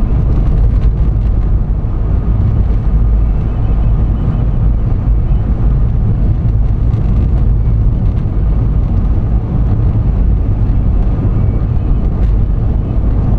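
Loud, steady low rumble of a vehicle driving: road and engine noise, with a few faint ticks.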